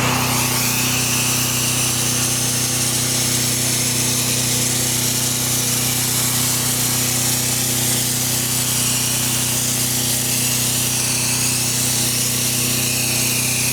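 Gas pressure washer running steadily while its wand sprays a high-pressure jet of water onto concrete, a loud, even hiss over the engine's steady hum, as the edges of the driveway are traced in.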